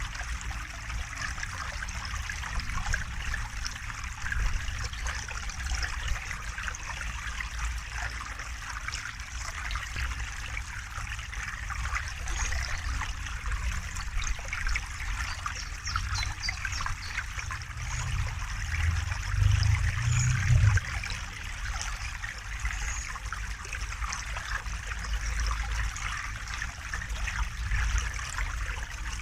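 River water flowing and trickling steadily over stones, with a low rumble underneath that swells for a couple of seconds about two-thirds of the way through.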